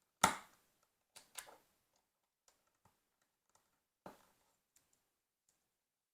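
Plastic LEGO pieces clacking as they are handled during a build. A sharp clack comes just after the start, two more about a second in, another around four seconds, and faint ticks fall between them.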